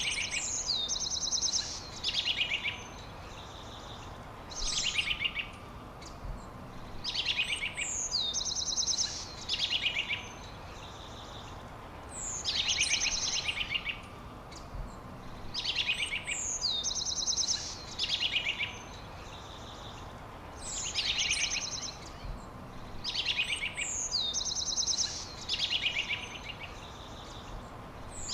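A songbird singing the same short phrase over and over, about every two to three seconds; each phrase opens with a quick falling whistle and runs into rapid, buzzy trills. A faint steady hiss of background noise lies underneath.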